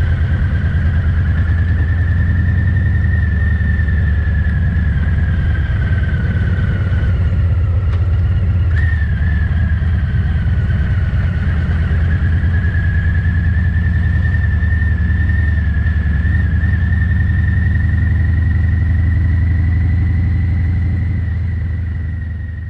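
Harley-Davidson Fat Boy 114's Milwaukee-Eight V-twin running steadily through a Vance & Hines exhaust, recorded with the microphone gain set too high so the sound is distorted. It fades out near the end.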